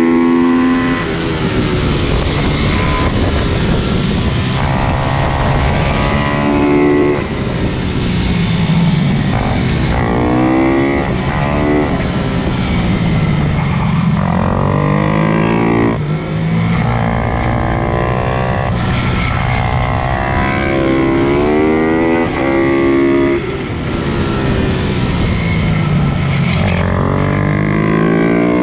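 Several pit bike engines racing, revving high and dropping back with each gear change, the rises and falls overlapping one another.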